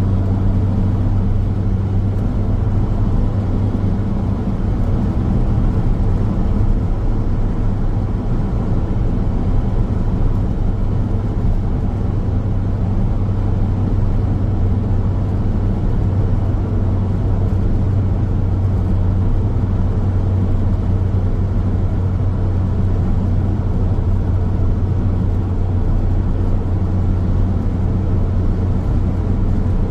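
A car driving steadily along a highway: continuous tyre and road noise with a steady low engine drone, unchanging throughout.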